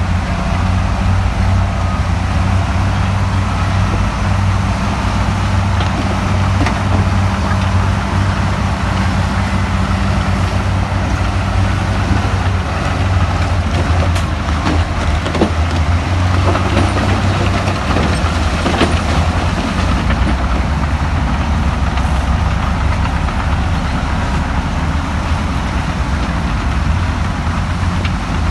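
Heavy earthmoving machine's diesel engine running steadily at a low, even pitch, with a few sharp knocks in the middle.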